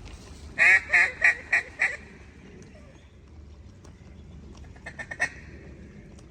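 Mallard hen quacking: five loud quacks in a descending cadence, coming faster toward the end, then a quick burst of three or four shorter quacks about five seconds in.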